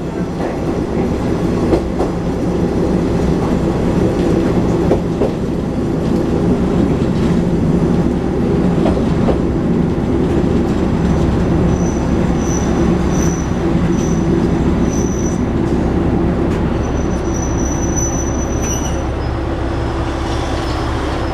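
Diesel railcar running along the line: a steady engine drone and rumble of wheels on rail, with occasional clicks over rail joints. In the second half a thin, high wheel squeal comes and goes, then holds for about two seconds.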